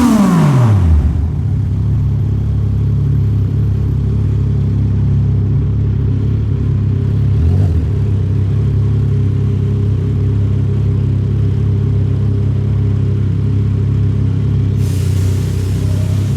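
Yamaha MT-09 SP's 890 cc inline-three with a Toce full exhaust, its revs dropping back in the first second, then idling steadily. A rise in hiss comes in near the end.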